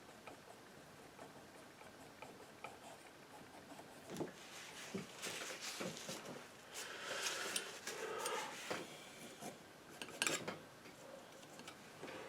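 Painting knife tapping and scraping against the palette and canvas in irregular strokes, with sparse light ticks at first, then busier scrapes and clicks through the second half.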